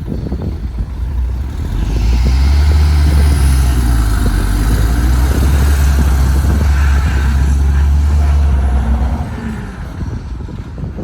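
Heavy earthmoving machine's diesel engine pulling hard: it rises to a loud, steady run about two seconds in, holds for several seconds with a hiss of noise over it, and drops back near the end.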